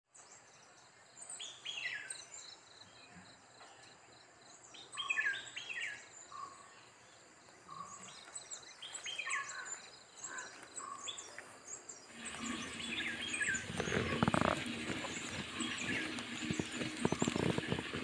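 Wild songbirds calling: repeated whistled calls that fall in pitch, every second or two, with higher chirps above them. About twelve seconds in, the sound turns louder and denser, busy bird chatter mixed with short clicks and knocks.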